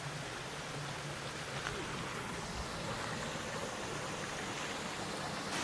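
Steady rush of a small waterfall and stream running over rocks.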